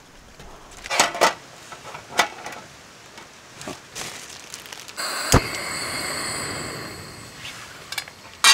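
Metal cookware and utensils clinking a few times. About five seconds in comes a sharp knock over a steady hiss that fades after a couple of seconds, and near the end a loud metallic clank.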